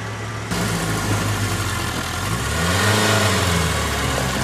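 Off-road 4x4's engine revving hard in mud, its pitch rising and then falling back about halfway through, over a steady hiss. The sound jumps suddenly louder about half a second in.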